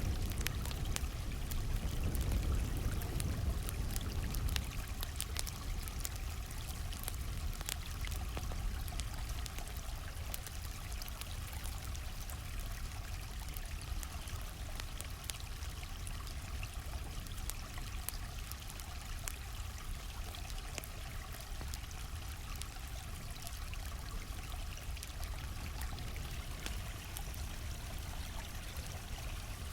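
A stream flowing steadily, with a campfire crackling and popping over it in scattered sharp clicks.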